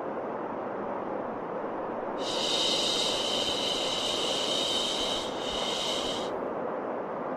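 Steady white noise with a long 'shhh' shushing sound laid over it, starting about two seconds in and lasting about four seconds, with a brief break near the end.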